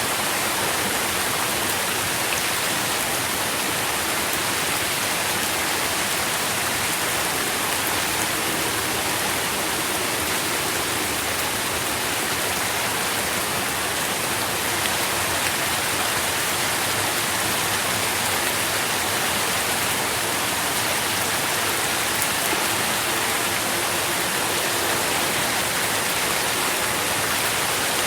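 Steady rain falling, with faint scattered drop ticks in an even hiss.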